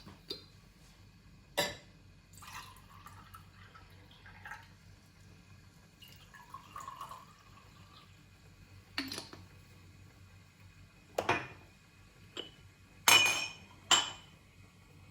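Glass and dishware clinking and knocking several times, the loudest two close together near the end, with short stretches of liquid sounds between the clinks.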